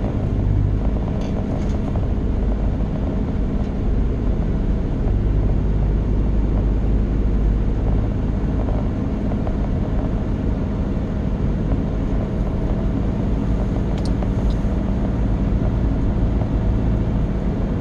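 Steady road and engine noise inside the cabin of a moving car: a continuous low rumble.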